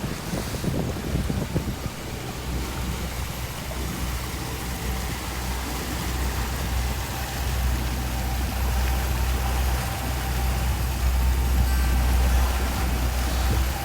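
Motorboat engine running steadily, a continuous low drone with wind and water rush over it.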